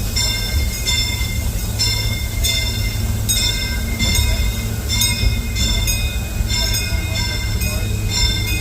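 Disneyland Railroad train running along the track, heard from aboard a passenger car: a steady low rumble from the moving cars, with short high ringing notes recurring about every half second over it.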